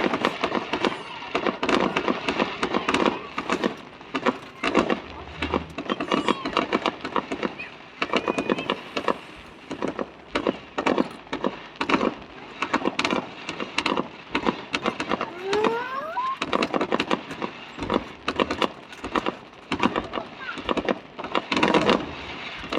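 Fireworks display: rapid crackling and popping bursts, with a brief rising squeal about sixteen seconds in and the voices of nearby onlookers underneath.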